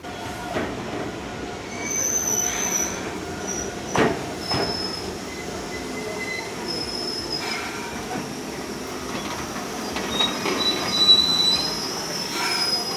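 Enoshima Electric Railway (Enoden) train running, its steel wheels squealing on the rails in thin high-pitched squeals that come and go over a steady rumble, with a couple of sharp clicks about four seconds in.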